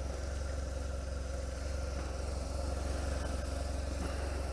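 BMW R1200 GSA's flat-twin engine idling steadily after being started, an even, unchanging run.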